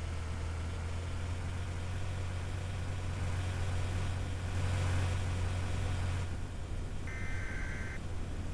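A steady low rumble with a faint hiss over it, and a short high electronic beep lasting about a second near the end.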